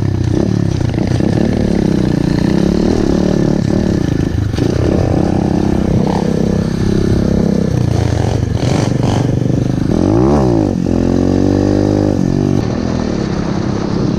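Pit bike's small single-cylinder engine revving up and down under load on a steep dirt climb, with a quick rise and fall in pitch about ten seconds in and some clattering.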